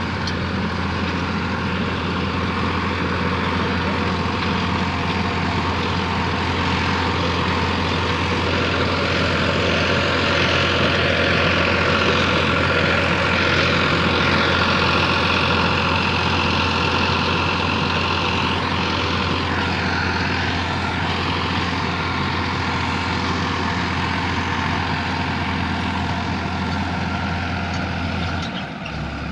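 Farmtrac 60 PowerMaxx tractor's diesel engine running steadily with a 9-foot rotavator attached; the sound drops away just before the end.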